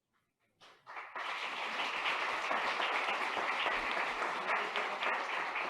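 Audience applause in a hall, many people clapping steadily; it starts about half a second in and swells quickly to full strength.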